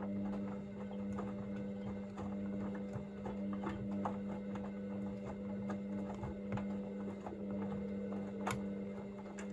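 Hoover VisionDynamic front-loading washing machine turning its drum in the heated wash phase: a steady motor hum with irregular light clicks and knocks from the tumbling laundry and drum.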